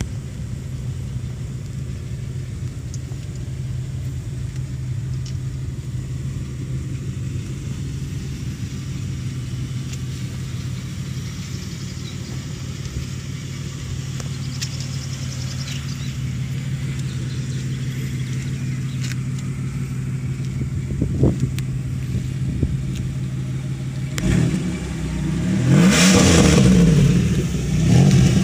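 1990 Pontiac Bonneville's 3.8-litre V6 idling steadily, then revved several times near the end, the pitch climbing and falling with each blip.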